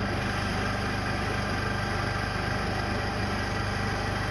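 The engine of a small engine dyno idling steadily, an even running sound with no change in speed.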